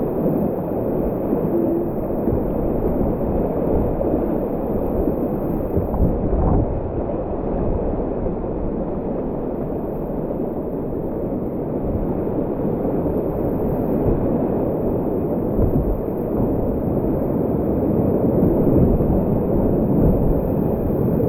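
Whitewater rapids rushing steadily, heard deep and muffled.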